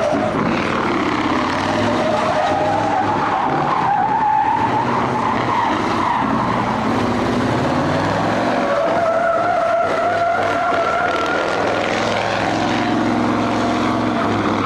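Engine running at high revs with tyres squealing continuously through a long drift, the squeal's pitch wavering up and down.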